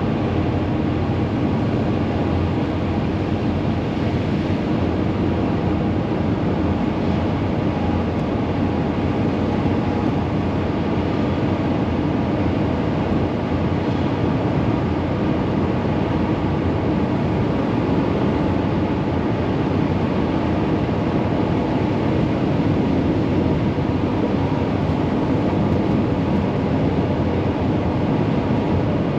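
Steady engine and road noise inside a Volkswagen Vanagon driving at highway speed. The engine, which has had a rough-running fault, seems to be running okay.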